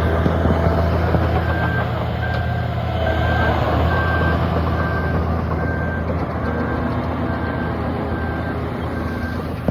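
Heavy diesel earthmoving machine running steadily with its reversing alarm beeping, one even tone repeating a bit faster than once a second from about a second and a half in.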